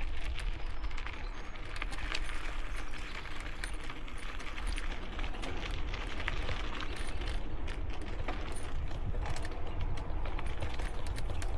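Bicycle being ridden over rough trail: light metal parts tinkling and clicking with each bump, over the steady rumble of tyres and wind on the helmet microphone.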